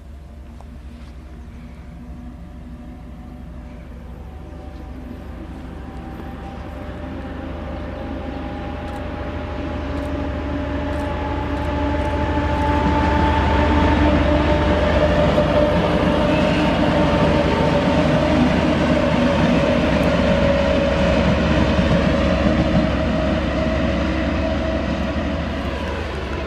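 Pair of TEP70BS diesel locomotives approaching and passing, their diesel engines running with a steady drone and several held tones over rail rumble. The sound grows steadily louder, holds loudest through the middle and latter part, then eases slightly near the end.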